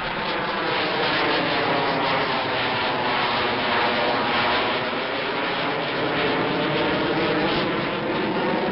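Aircraft flying past overhead: a steady engine rush whose tone slowly shifts in pitch throughout.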